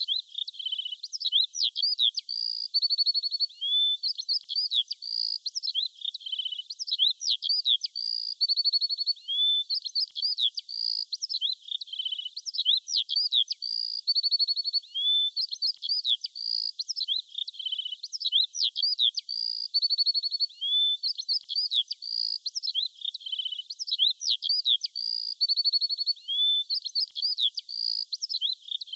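Small songbirds chirping continuously in quick, high, sweeping notes mixed with short buzzy trills. The same stretch of calls comes round again about every six seconds.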